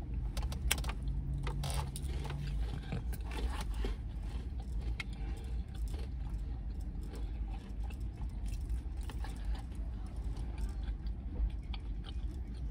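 Close-up chewing and crunching of salad with croutons: many irregular crisp crunches and clicks throughout, over a steady low hum.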